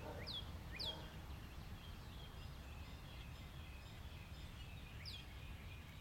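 Quiet outdoor ambience: a bird gives a few short, high chirps that fall in pitch, two near the start and another about five seconds in, over a steady low background rumble.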